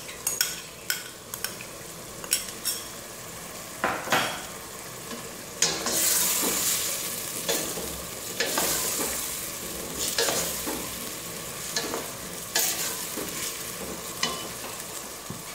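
Tomato-onion masala sizzling in ghee in a stainless steel pot as browned onions are stirred in with a wooden spatula, with repeated sharp knocks and scrapes of the spatula. The sizzling grows louder about six seconds in, then slowly eases.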